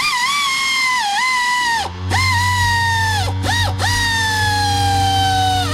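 Impact gun spinning the 15 mm hub assembly bolts in to snug them up: a high motor whine that sags slowly in pitch with a few brief dips as the trigger is eased, joined about two seconds in by a steady low buzz.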